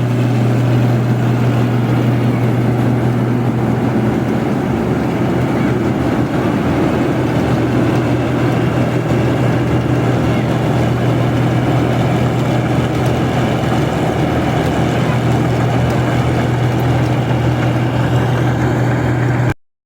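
Rice combine harvester running steadily, its engine and machinery giving a strong constant low hum; the sound cuts off abruptly near the end.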